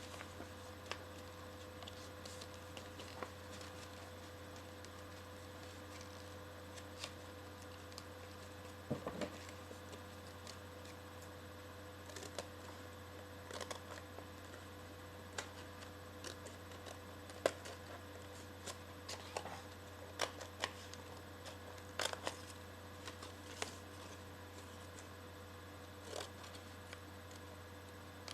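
Sheet of paper being handled and folded: soft rustles and irregular crisp creasing clicks, over a steady low electrical hum.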